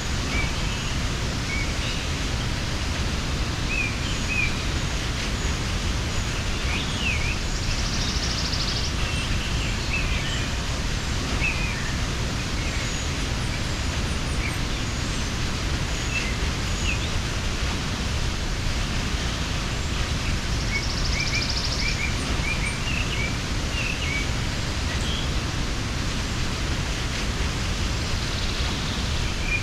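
Waterfall rushing steadily, with small birds chirping now and then over the water sound.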